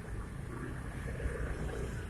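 Steady road-traffic and vehicle rumble, with some wind buffeting the microphone.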